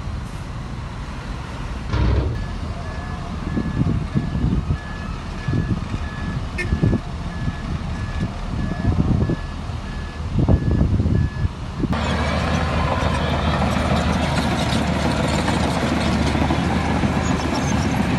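Reversing alarm on heavy diesel earthmoving machinery, beeping at an even pace over an engine that surges up and down under load. About twelve seconds in the sound switches abruptly to a steady heavy diesel engine running with a constant rattle.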